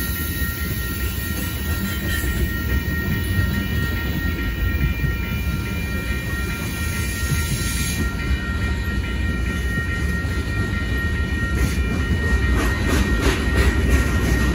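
Freight cars of a Union Pacific manifest train rolling through a grade crossing, a steady low rumble with the crossing bell ringing over it. In the last few seconds the wheels clack more loudly and regularly.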